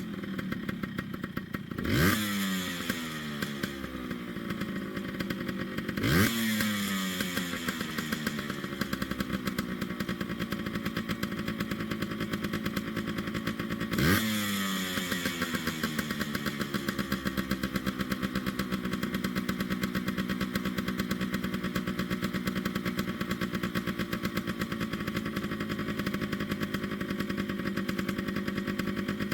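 Yamaha RT100's two-stroke single-cylinder engine idling, blipped three times: the revs jump and fall back, the first two close together and the third a bit later, then it settles into a steady idle. This is the carburettor being tuned after the rebuild.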